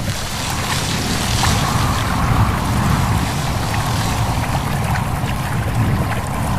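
Steady mix of wind, rustling leaves and a babbling stream, with a constant low wind rumble under the hiss of the water.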